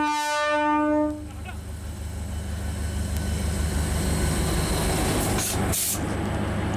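Diesel multiple-unit train's horn finishing a long single-pitch blast about a second in, followed by the steady low rumble of the train's engine as it runs.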